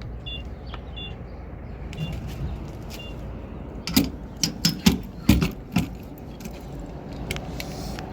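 A vehicle's warning chime beeps about once a second over a low steady rumble, and the beeping stops around the middle. Then comes a quick run of sharp clicks and clunks, the loudest sounds here.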